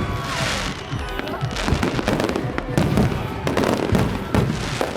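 Many fireworks and firecrackers going off, a dense run of bangs and pops one after another.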